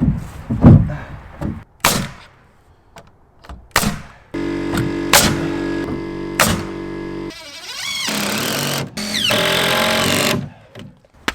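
Power tool driving fasteners into the cabin's framing: several sharp knocks, then three stretches of rapid hammering, the first about three seconds long and the others shorter.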